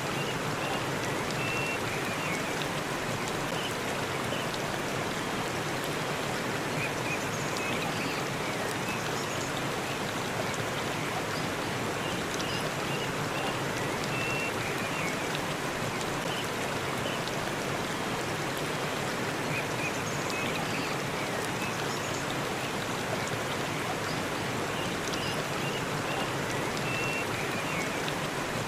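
Waterfall in a forest: a steady, even rush of falling water, with faint short high chirps every few seconds.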